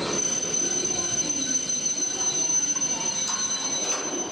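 Shinkansen train at the platform, a steady high-pitched whine over a low rumble, starting abruptly and cutting off just after the end.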